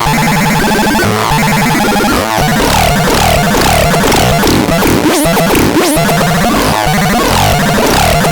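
Synthesizer playing a loud, dense, chaotic texture, with quick falling pitch sweeps repeating about twice a second over a pulsing low part.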